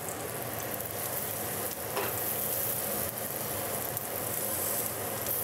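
Smashed potatoes frying in oil in a skillet, sizzling steadily, with a single light click about two seconds in.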